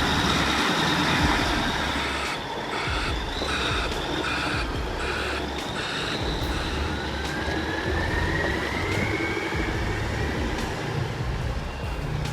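A heavy vehicle running: a low rumble under a steady high-pitched squeal, choppy for a few seconds, then a whine that rises in pitch.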